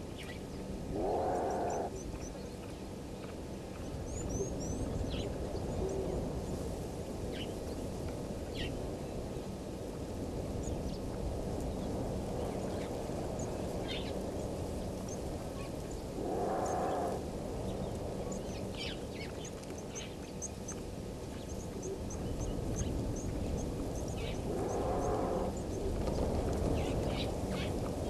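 An unidentified animal call, given three times, each about a second long and well spaced apart, over a steady outdoor background with faint high bird chirps.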